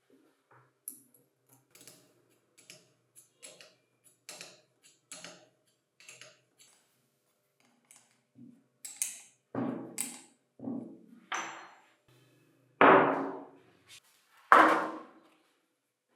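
Workshop tool noises: a run of light clicks and taps, then heavier knocks, and near the end two loud strikes that each ring briefly before dying away.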